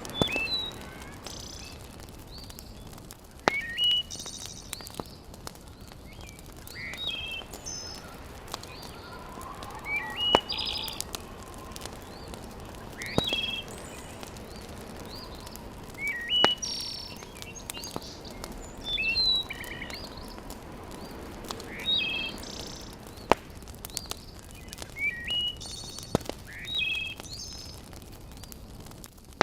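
Small birds chirping in short, quick phrases every few seconds over a steady hiss, with a few sharp single pops from a wood fire crackling in a fireplace.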